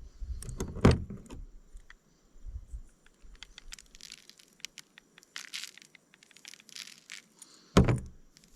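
Handling noise while seasoning a steak at a camp table: a thump about a second in and another near the end, with scattered clicks and short shaking rattles between.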